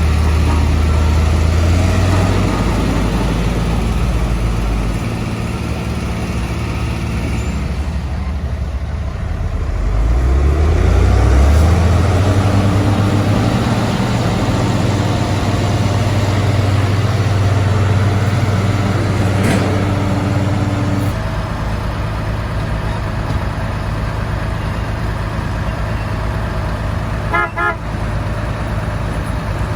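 Diesel engines of heavy road-construction machinery running, one revving up about ten seconds in, with a short horn toot near the end.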